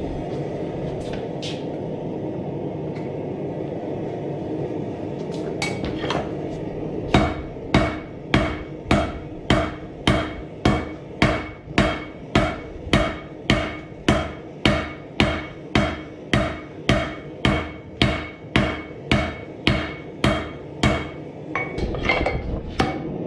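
Blacksmith's hammer forging hot knife steel on an anvil. After several seconds of a steady rushing noise and a few light clinks, regular hammer blows begin, about two a second, each ringing with a metallic tone. The hammering pauses briefly near the end, then resumes.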